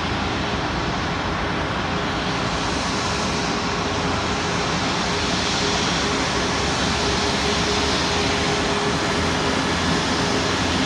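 Boeing 737 MAX 8's CFM LEAP-1B jet engines running steadily at taxi power, with a faint steady whine. The hiss grows a little louder a couple of seconds in.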